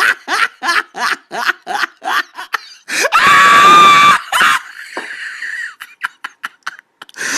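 A person laughing in quick short bursts, breaking into a loud, shrill scream about three seconds in that lasts about a second, then laughing again in short wheezy bursts.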